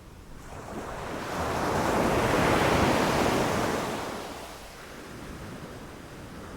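Ocean wave breaking on a beach: the surf hiss builds for about two seconds, peaks, and then recedes to a low wash.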